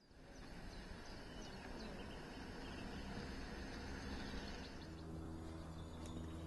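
Faint outdoor ambience with small birds chirping now and then. About five seconds in, a steady low hum sets in underneath.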